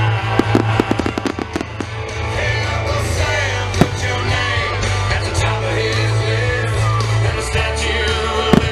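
Aerial fireworks bursting over loud music with singing. A quick run of crackling pops comes in the first two seconds, then single bangs near the middle and just before the end.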